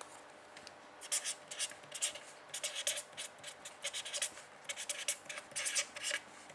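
A pen scratching in quick short strokes while writing, which starts about a second in and goes on for about five seconds.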